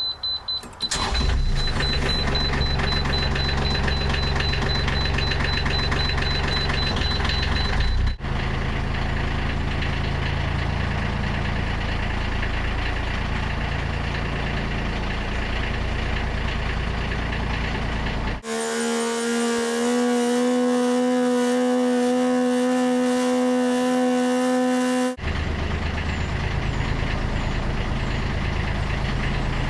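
Narrowboat diesel engine starting about a second in and then running steadily, with a high, steady beep over the first several seconds. Midway, for several seconds, the engine rumble gives way to a steady pitched drone that rises slightly in pitch once.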